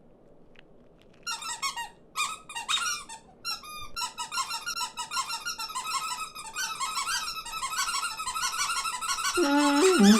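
Cartoon small birds chattering and squeaking over one another. The calls start about a second in and grow into a dense, overlapping babble. Near the end a lower-pitched, honking call cuts in.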